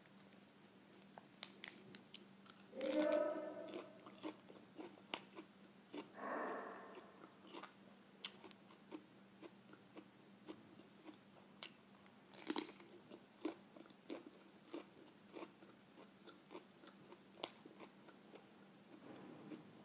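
A person chewing raw cabbage leaves close to the microphone: irregular crisp crunches with short pauses between them.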